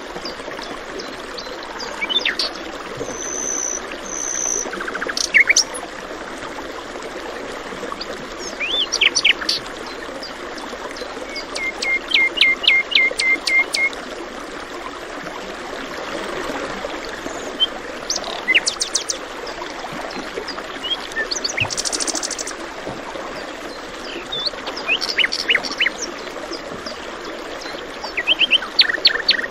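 Several small birds chirping and calling over the steady rush of running water. About twelve seconds in, one bird gives a quick run of about seven repeated notes.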